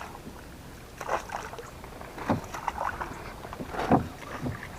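Small boat on the water: faint steady hiss with a few soft, scattered knocks and splashes.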